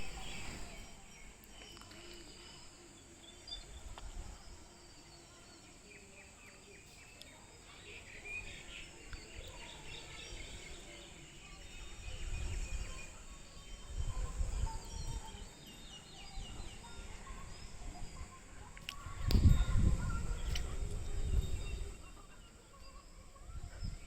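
Outdoor nature ambience: birds chirping here and there over a steady high insect drone, with low rumbling gusts rising and falling, the loudest about four-fifths of the way through.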